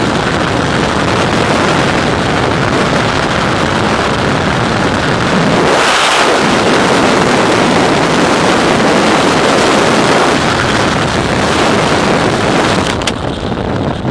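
Freefall wind on a skydiver's helmet camera: a loud, steady rush of air over the microphone with no engine note in it, beginning to die away near the end.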